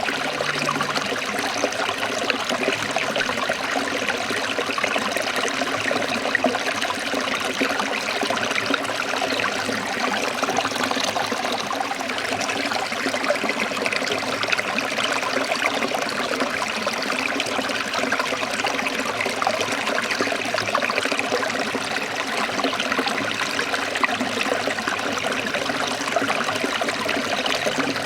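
Forest stream trickling and splashing in a steady, unbroken flow.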